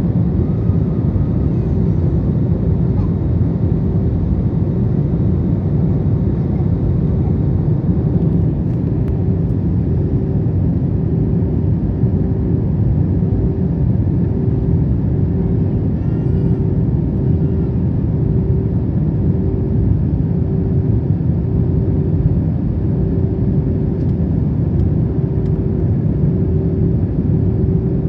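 Airbus A321 cabin noise during descent: a steady roar of airflow and jet engines heard from a window seat, with a low droning tone that pulses about once a second.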